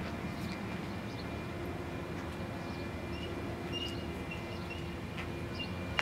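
Steady low outdoor rumble with a faint hum. From about halfway in, a few short, faint high chirps of small birds come through, and there is one sharp click at the very end.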